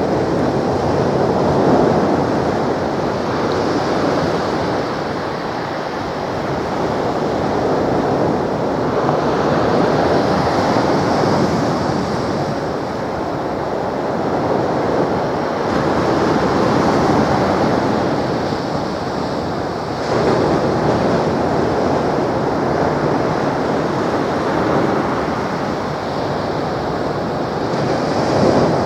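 Sea surf breaking on the shore: a steady roar that swells and falls back every few seconds.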